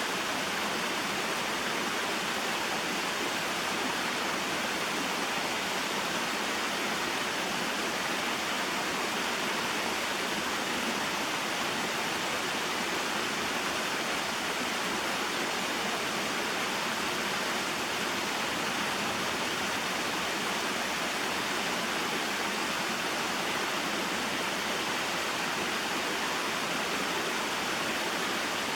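Small waterfall and mountain stream: water falling and flowing over rocks in a steady, even rush.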